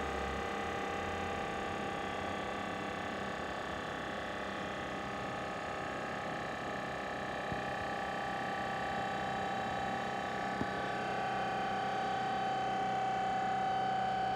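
Hitachi EC1443H high-pressure air compressor running steadily, a mechanical hum with a strong whine, growing slightly louder near the end.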